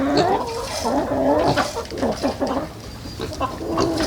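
Farm animals calling: a run of short pitched calls that rise and fall, overlapping one another.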